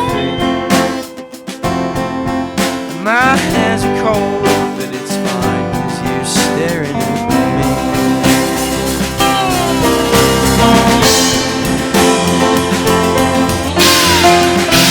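Country-style band music with guitars in an instrumental passage; a lead line bends up and down in pitch several times over steady strummed chords.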